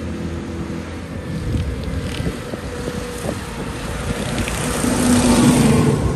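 Tractor engines running as tractors drive past, one passing close and loudest about five seconds in before fading.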